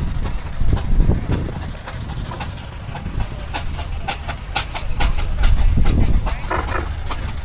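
Steam engines on the move: a low rumble with clanking knocks and steam chuffing.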